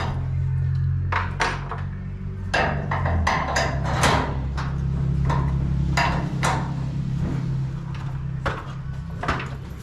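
Irregular metal knocks and clanks of tools working on garage door hardware during a spring and roller replacement, over a low steady hum.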